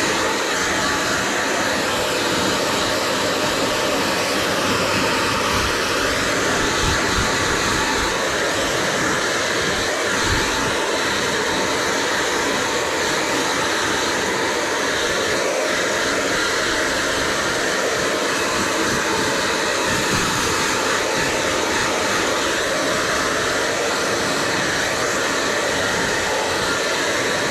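Handheld hair dryer blowing steadily on long hair, an even airy rush with small shifts in tone as the airflow moves through the hair.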